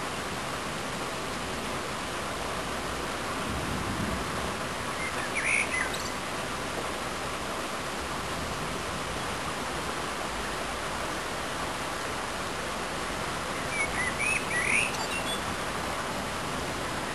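Steady hiss of a storm outdoors, with a bird chirping briefly twice, about five seconds in and again near the end.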